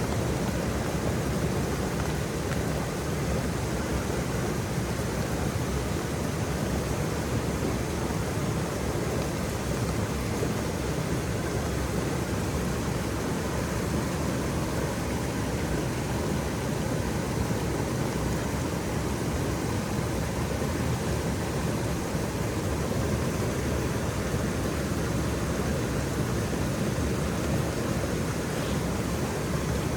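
Waterfall: a steady, even rush of falling water, heaviest in the low range, with no breaks or separate splashes.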